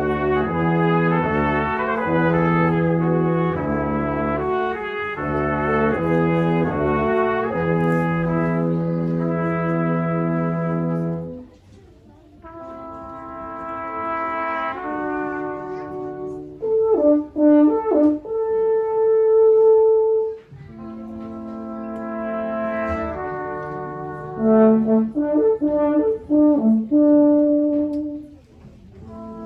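Brass quartet playing held chords. The music breaks off briefly about twelve seconds in, then resumes with louder passages of short, detached notes over sustained tones.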